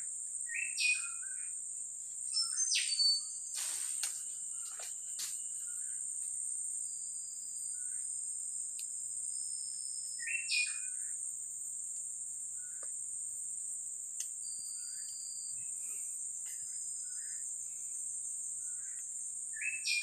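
Small forest birds calling: a short stepped whistled phrase repeated three times about ten seconds apart, thin high whistles in between, over a steady high-pitched insect drone. One sharp knock about four seconds in.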